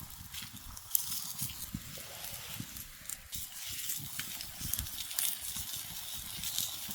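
Open wood campfire crackling: scattered sharp pops and clicks over a steady hiss, with irregular dull low knocks.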